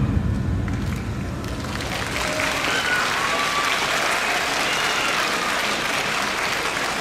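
Audience applauding, a steady clapping that builds about a second in.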